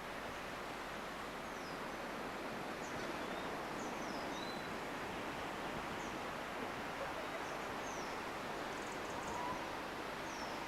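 Steady outdoor background noise with short, high, downward-gliding bird chirps scattered through it.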